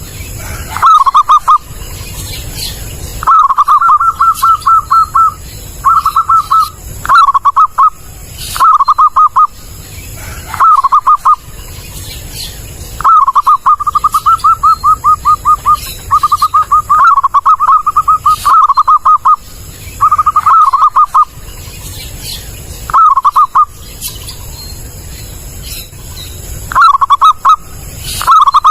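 Zebra dove (perkutut) cooing loudly: phrases of quick, staccato coo notes, each a short run or a longer rolling string, repeated about every one to two seconds.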